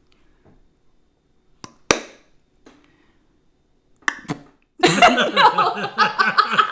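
A mouth-made imitation of something falling and splatting: a single sharp wet smack about two seconds in, with a few small lip clicks around it. Laughter breaks out from about five seconds in.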